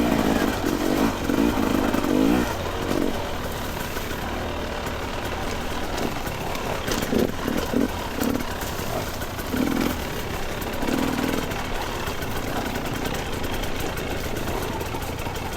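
Two-stroke dirt bike engine running at low speed on the trail, picking up in short bursts now and then.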